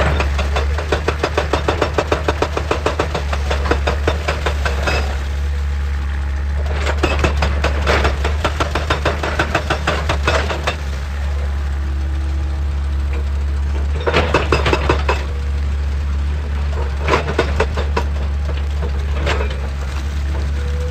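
Excavator at work on rock: its diesel engine runs with a steady deep drone, under several bouts of rapid, evenly spaced hard knocks that come and stop.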